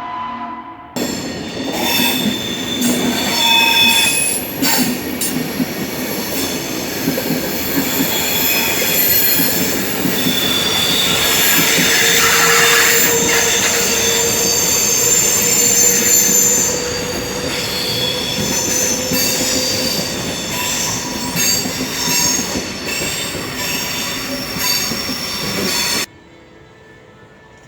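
Loud rumbling noise with several high, steady squealing tones over it. It cuts in suddenly about a second in and cuts off suddenly near the end.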